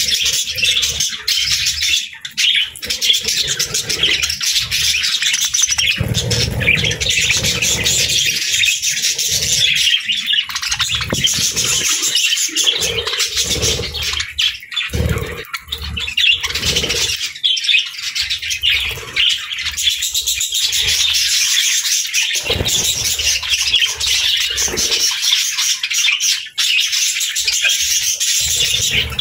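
Many small birds chirping and twittering continuously, with a few low thuds now and then.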